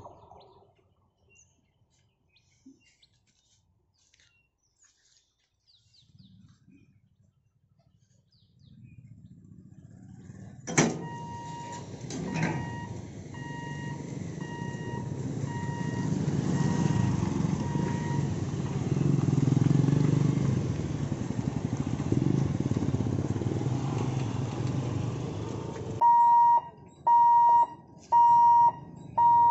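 After several seconds of near silence, an electric local train's rumble on the rails builds, peaks and then cuts off, while a level-crossing warning tone beeps faintly on and off. Near the end a level-crossing warning alarm beeps loudly and evenly, a little more than once a second.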